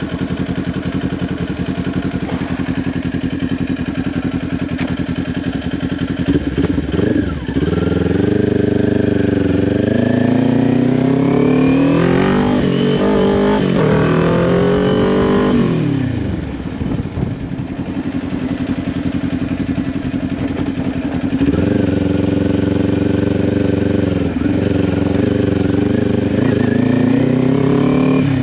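Kawasaki Ninja 400's parallel-twin engine through a Leo Vince LV10 slip-on exhaust, running steadily at first. About six seconds in, the rider accelerates hard, the pitch climbing in steps through several gear changes. The engine then rolls off, runs lower for a few seconds, and pulls up through the gears again near the end.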